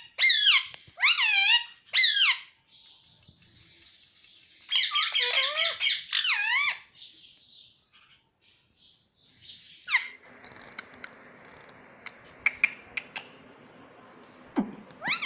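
Ring-necked parakeet calling in high, shrill squawks that rise and fall in pitch. It gives three calls in the first couple of seconds, then a quick run of calls, and one falling call about two-thirds through, followed by a few light clicks.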